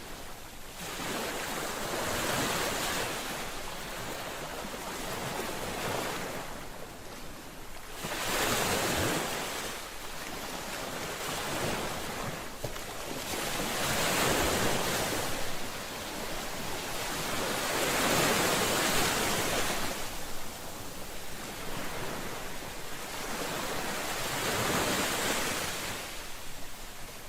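Ocean waves breaking on the shore, a hissing wash of surf that swells and recedes every four to six seconds.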